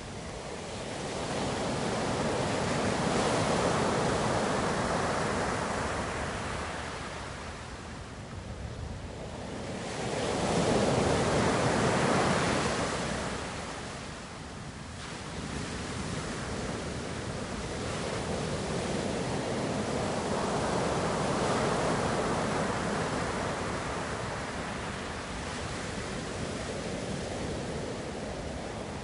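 Ocean surf: waves swelling and falling away three times in slow surges, with a steady wash between them.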